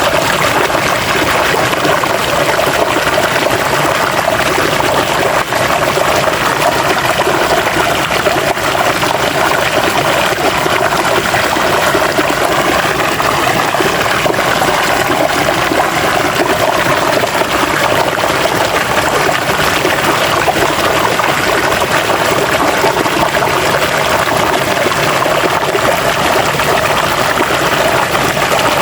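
River water flowing and splashing over rocks, a steady rushing babble.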